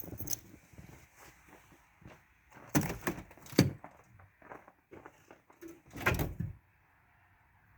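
A door being handled: a series of knocks and thuds, the loudest a little after three and a half seconds in, then a longer heavy clunk about six seconds in, after which all goes to a low hush.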